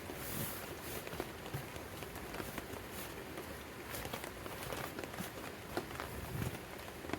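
Steady rain falling, with scattered irregular drops and a few light knocks through it.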